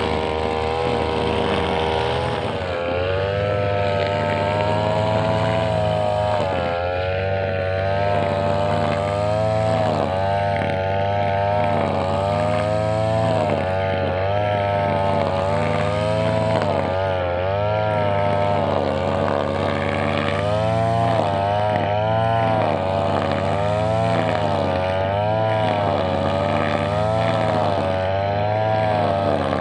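Two-stroke brushcutter engine running, steady for the first couple of seconds, then its pitch rising and falling about once a second as the throttle is worked while cutting grass.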